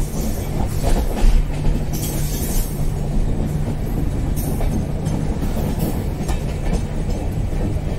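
Passenger train running along the track, heard from on board: a steady rumble of wheels on rails with a low hum, and rushing air that swells and fades.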